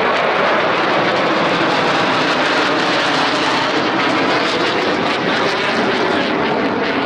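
Jet engines of the Blue Angels' F/A-18 Super Hornets, a loud, steady rushing roar of jet noise as the formation flies.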